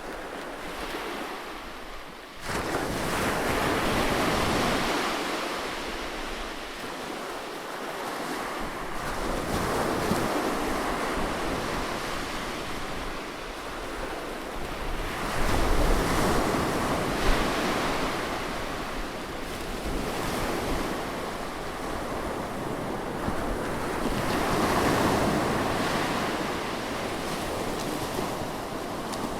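Ocean surf breaking on a beach, the waves rising and falling in swells every several seconds, one breaking suddenly about two seconds in. Wind rumbles on the microphone at times.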